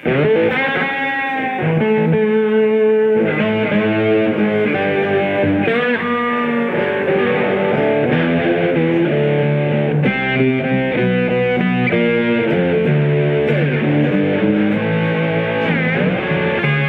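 Two guitars playing a blues instrumental passage: a lead guitar bending and shaking its notes over a bass line played on the low strings of a seven-string guitar.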